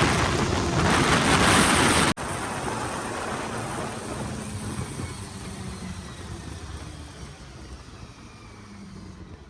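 Heavy wind rumble on the microphone that cuts off suddenly about two seconds in, followed by a quieter steady vehicle running noise that slowly fades.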